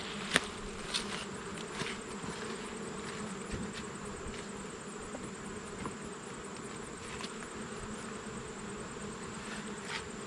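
Honeybees buzzing steadily in a mass around an opened hive during a frame-by-frame inspection, with a few sharp clicks, the clearest about half a second in.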